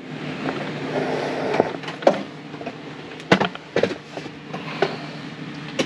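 Water spraying from a handheld RV shower head, with several sharp knocks and clatters as the head and hose are handled; a steady low hum runs underneath.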